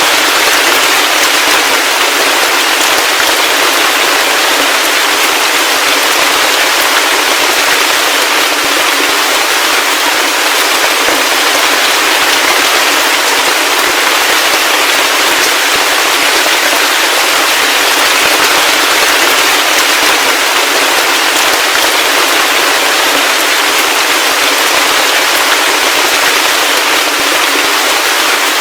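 Heavy rain falling steadily: an even, dense hiss of countless drops with fine close pattering hits and no low rumble.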